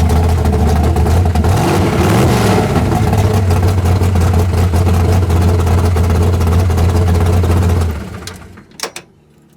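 A car engine running loudly at a steady idle, briefly revved about two seconds in, then shut off about eight seconds in, after which only a few faint clicks remain.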